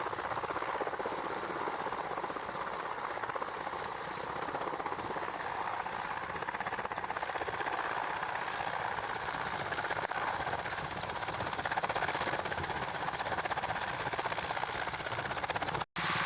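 Helicopter running steadily, a dense rotor beat over engine noise, with a brief dropout near the end.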